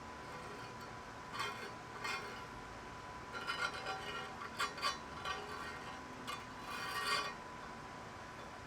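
Metal tools and parts clinking and scraping in several short bursts while a workpiece is handled during machining setup, over a faint steady high hum.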